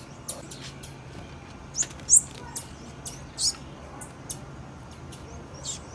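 Female blue-black grassquit (tiziu) giving a series of short, high chip calls at irregular intervals, the loudest about two seconds in.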